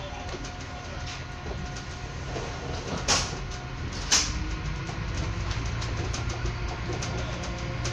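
Train running slowly, heard from inside the carriage: a steady low rumble of the wheels on the track with light regular clicking, and two sharp loud clacks about a second apart near the middle.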